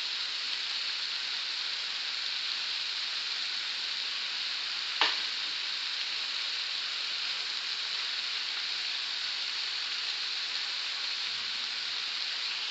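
Minced-meat and grated-vegetable filling sizzling steadily in a frying pan, nearly cooked. A single sharp click comes about five seconds in, and a spatula stirs the pan near the end.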